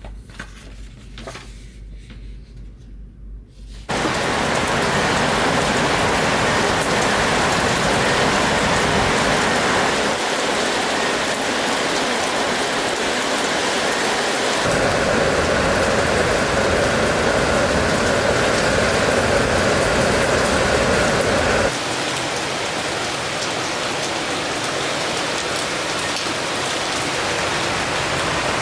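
Steady rain falling, coming in suddenly about four seconds in after a few faint small handling clicks. Its tone changes abruptly a few times.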